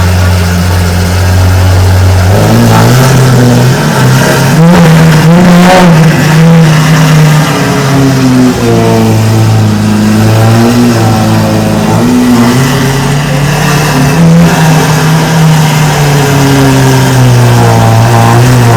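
A car engine revving loudly and held at high revs, its pitch stepping up about two seconds in and then rising and falling in slow waves.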